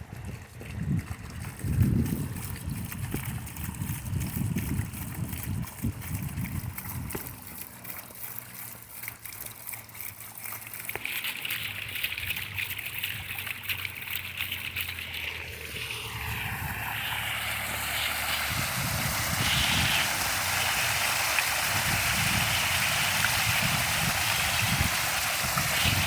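Water fountain cascade splashing: a steady rush of falling water that grows louder about halfway through and then holds. Wind buffets the microphone in the first half.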